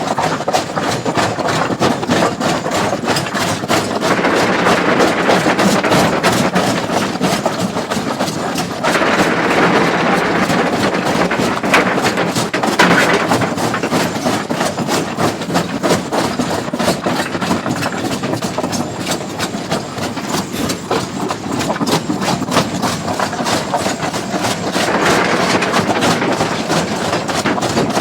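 Excavator breaking a large stone: the diesel engine runs under load with a fast, continuous hammering against the rock. The hammering grows louder in a few stretches.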